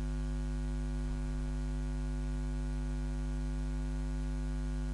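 Steady electrical mains hum: a low, unchanging drone with a stack of evenly spaced overtones and a faint hiss.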